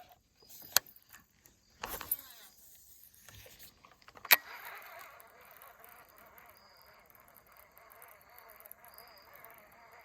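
A few sharp knocks and clicks, the loudest about four seconds in, then faint steady outdoor ambience with insects chirping.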